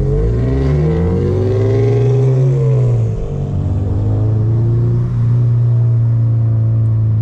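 Full-bolt-on 8th-generation Honda Civic Si's four-cylinder engine and exhaust heard inside the cabin, rising in pitch as the car accelerates in the first second, wavering, then settling into a steady drone from about three seconds in.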